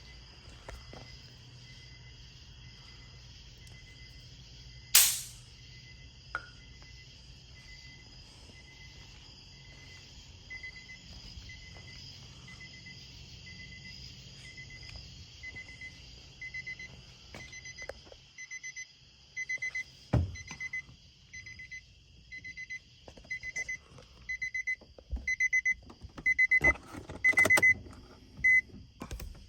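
A short high electronic beep repeating about once a second, growing louder over the second half, with one sharp click about five seconds in and a few knocks and rattles near the end.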